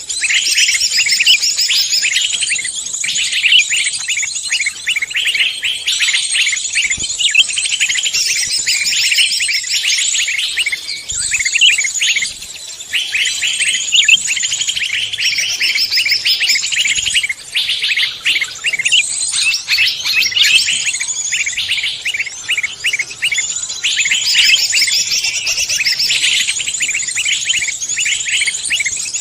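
A dense chorus of small songbirds chirping and twittering in rapid, high-pitched notes that overlap almost without pause, with a short lull about eleven seconds in.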